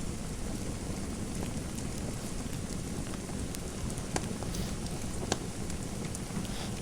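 Fireplace fire crackling: a steady hiss and low rumble with scattered sharp pops, a few of them louder between about three and five and a half seconds in.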